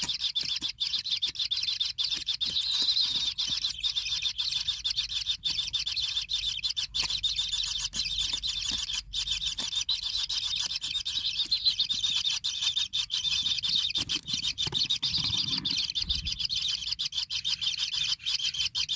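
Kingfisher chicks in the nest hole giving a continuous, rapid, high-pitched chirping chatter, with some low scuffing about three-quarters of the way through.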